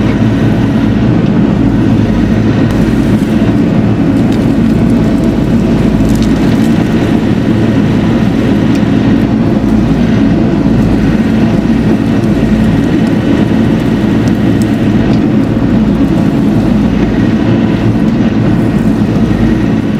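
Bobcat E42 mini excavator's diesel engine running steadily at working speed while the machine digs the pond bank.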